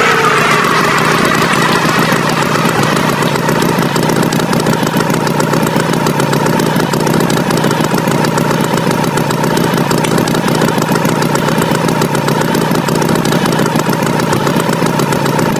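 Tractor engine running steadily at idle, an even unbroken drone. A falling, whistle-like glide fades out in the first second or so.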